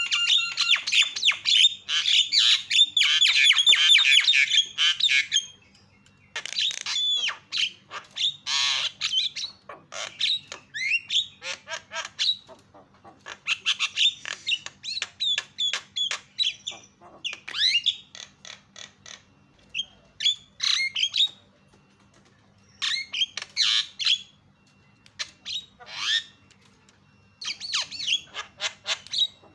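Javan myna (jalak kebo) singing in full voice: harsh squawks mixed with rapid clicking chatter, pouring out without a break for the first five seconds or so, then coming in shorter bursts with brief pauses between them.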